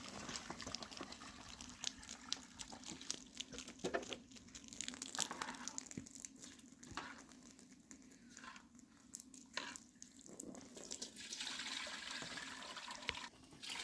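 Water running and splashing, with scattered clicks and knocks, and a steadier rush of water about eleven seconds in.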